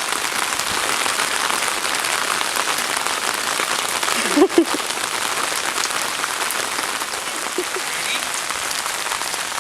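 Heavy rain pouring down, a steady dense hiss of drops hitting the ground. About four and a half seconds in, a short voice-like sound rises briefly above it.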